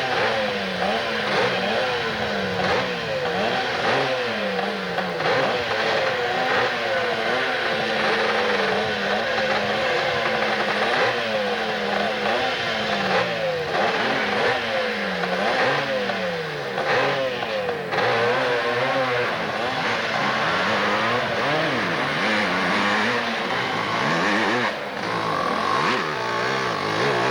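Hill-climb motorcycle engine revving hard, its pitch swinging up and down over and over as the throttle is worked.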